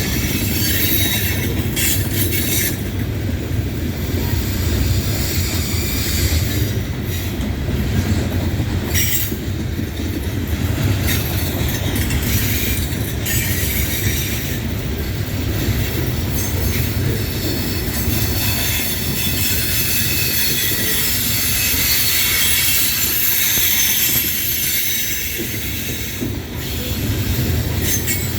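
Loaded coal hopper cars rolling past, a steady low rumble of steel wheels on rail with high-pitched wheel squeal running over it.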